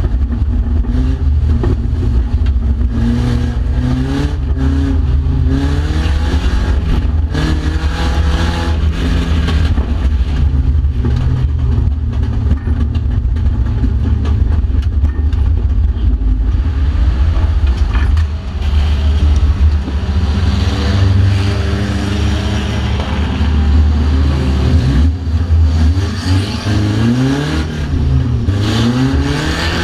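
Mercedes banger-racing car's engine heard from inside the cabin, revving up and down repeatedly under hard driving over a heavy low rumble, with occasional knocks and rattles.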